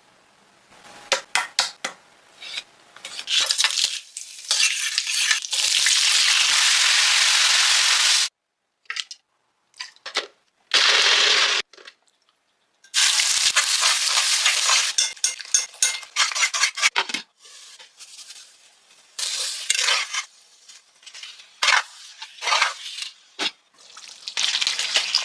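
Chicken gravy cooking in a pan: oil sizzling and frying, with a utensil stirring and clinking against the pan. The sound cuts off abruptly to silence several times and starts again.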